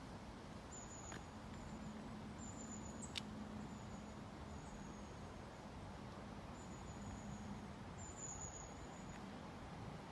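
Faint background noise with a steady low hum, over which come a string of short, thin, high-pitched peeps, each holding one pitch, and a single sharp click about three seconds in.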